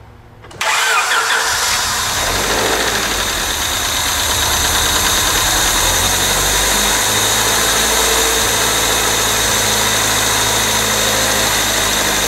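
1999 Honda Civic's remanufactured four-cylinder engine starting for the first time: it fires about half a second in and settles straight into a steady idle, with no drama.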